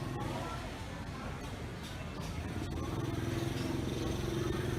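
Market ambience: a small engine, likely a passing motorcycle, runs steadily and grows louder near the end, under a murmur of voices.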